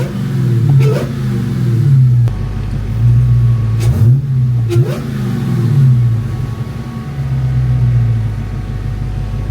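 Chrysler 300's supercharged Hemi V8 running and revved in several short throttle blips, the pitch rising and falling about five times.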